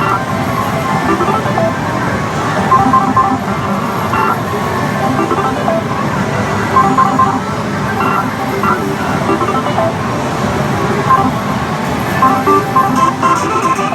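Dense din of a pachislot parlour: many slot machines' electronic jingles and short beeps over a loud, steady wash of noise.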